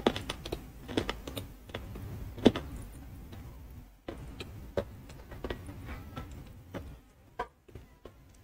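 Close-miked chewing of edible calabash chalk (ayilo): a run of irregular, crisp crunches as the lump breaks up in the mouth, thinning out near the end.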